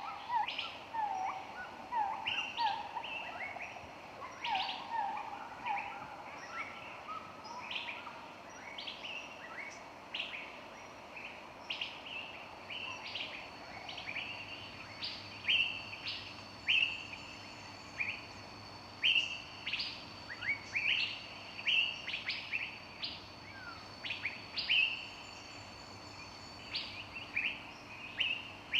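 Several birds singing and chirping in woodland: a run of repeated short whistled notes in the first few seconds, then many quick high chirps and down-slurred notes overlapping throughout.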